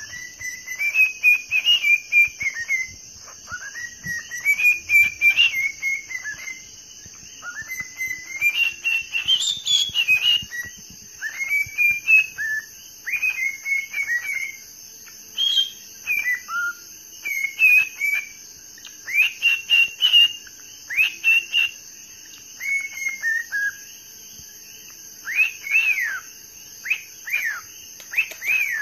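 A bird chirping and whistling in clusters of short rising and falling notes, over a steady high-pitched hiss.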